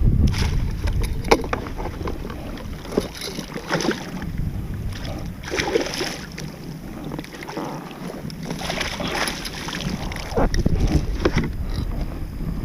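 Irregular splashing, sloshing and knocks in and around a kayak as a hooked striped bass is landed, with wind buffeting the microphone.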